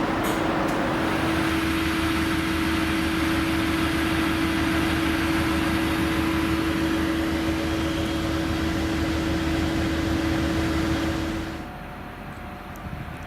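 V/Line N class diesel locomotive running steadily, a loud engine noise with a steady hum and a low throb. About three-quarters of the way through, the sound drops away abruptly to a quieter background.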